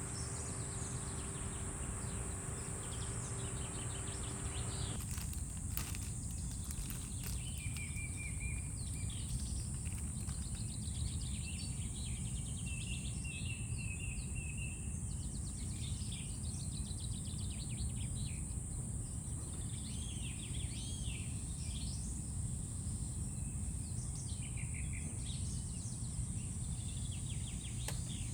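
Outdoor summer ambience: a steady high-pitched insect drone, with birds chirping and trilling throughout most of it, over a low rumble of wind. A faint steady hum stops about five seconds in.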